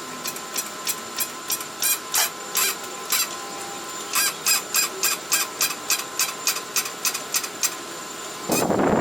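Sharp metallic clicking from a hand tool in use, about three clicks a second with a short break a few seconds in. A louder rushing noise starts near the end.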